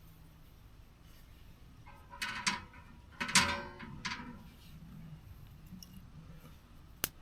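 Camping gear being handled: a cluster of short clattering knocks and rattles about two to four seconds in, then a single sharp click near the end.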